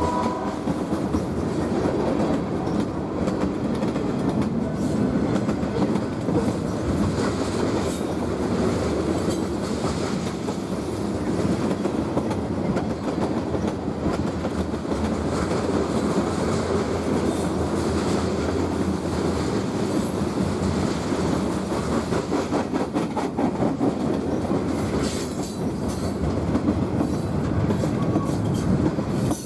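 BNSF freight train rolling past at close range: a steady rumble of wheels on rail with repeated clicking as the cars pass over rail joints.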